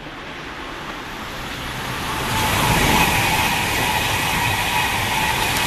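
Virgin Trains Pendolino electric express passing at speed. Its rushing noise builds from the start to a peak about three seconds in, with a steady high whine over it.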